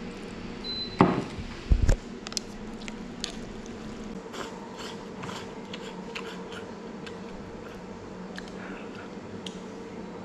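A person eating noodles: light clicks and scrapes of chopsticks against a bowl over a steady background hum. There are a few louder knocks about a second in.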